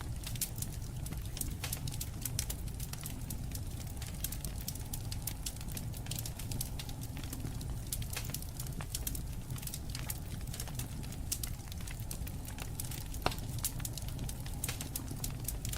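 Wood fire burning: a steady low rumble with irregular crackles and pops, one sharper pop about 13 seconds in.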